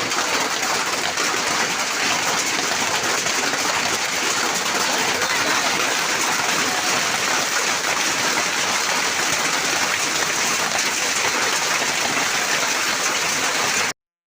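Heavy rain and hail pelting down in a dense, steady hiss of drops and hailstones striking, cutting off abruptly near the end.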